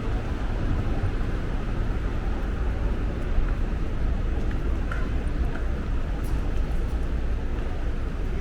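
Steady city street ambience: a low, continuous traffic rumble with a general background hum of the street.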